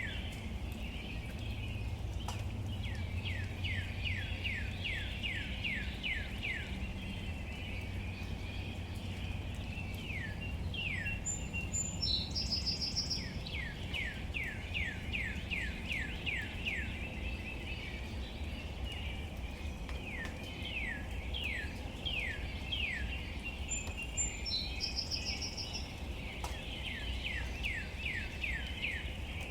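Birds calling: repeated runs of quick falling notes, several a second, with a shorter, higher call about 12 seconds in and again near the end, over a steady low background rumble.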